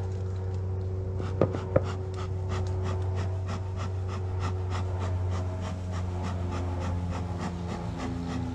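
Honeybees buzzing around an open hive: a steady drone, with single bees passing close and shifting in pitch. Two sharp knocks of hive parts being handled about a second and a half in.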